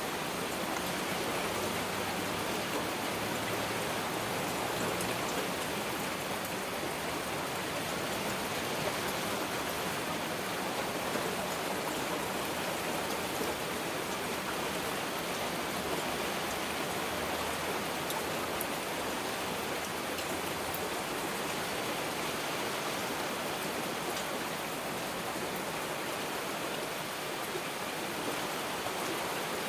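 Heavy rain falling steadily, an even wash with faint scattered drop ticks.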